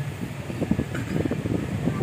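Passenger train running slowly, heard from inside the coach at an open window: a steady rumble with irregular rattling and clatter.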